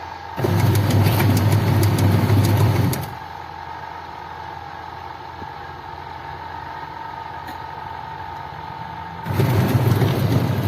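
Washing machine wash motor running under the control of a newly fitted wash timer: a loud steady hum for about two and a half seconds, a pause of about six seconds, then the motor starting again near the end. The timer is switching the motor on and off to turn the drum one way, then the other.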